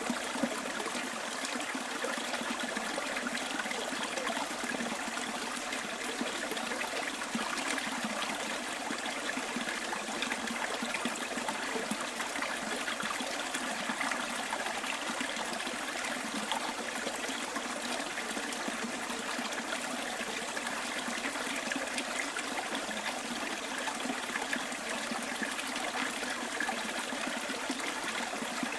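A stream's water flowing steadily and evenly, without pause or change.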